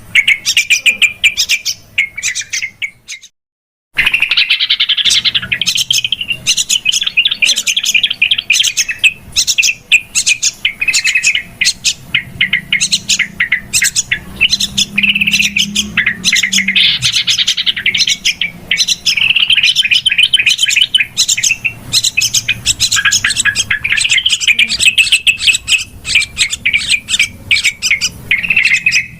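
Yellow-vented bulbuls (trucukan) chattering noisily and rapidly, a busy lure call made of quick, overlapping notes. The chatter breaks off for about a second near the start, then runs on.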